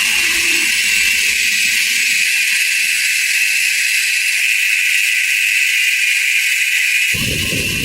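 Steady, loud hissing noise, with low rumbling coming in near the end.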